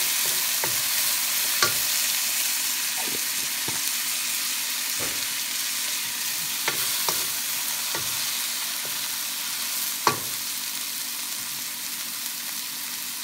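Onions and minced garlic sizzling in oil in a wok, stirred with a wooden spatula that scrapes and taps against the pan now and then, with one louder knock about ten seconds in.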